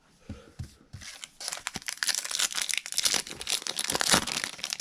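Wrapper of a baseball card pack being torn open and crinkled: a few soft handling knocks, then a dense crackling that starts about a second in and is loudest in the middle.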